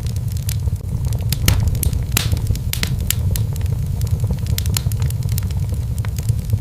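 Wood fire in a fireplace crackling, with frequent sharp irregular pops over a steady low noise of the burning.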